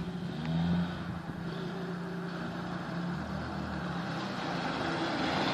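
A car engine running steadily, growing a little louder near the end.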